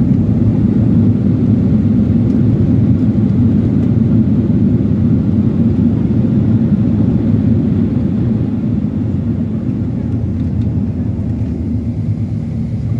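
Cabin noise inside a Boeing 737-800 on the ground after landing: a steady, loud low rumble from the engines and the rolling airliner, easing slightly as it slows.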